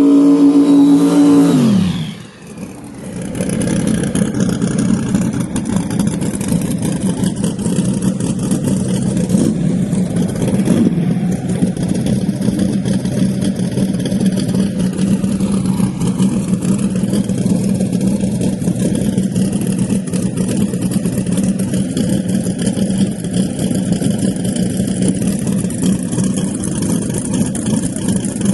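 A drag car's engine at high revs, its note falling and fading about two seconds in. Then a loud engine idles with a choppy, uneven note.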